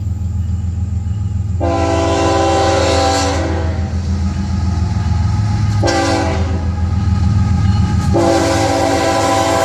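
Florida East Coast Railway freight locomotive #1834's horn sounding for a grade crossing: a long blast about a second and a half in, a short one around six seconds, and another long one starting near the end. Under it the locomotive's diesel engine rumbles steadily.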